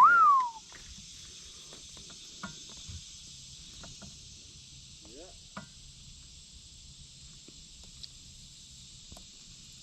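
Steady high-pitched chorus of insects, with scattered faint clicks. It opens with a brief loud whistle-like tone that rises, then falls away.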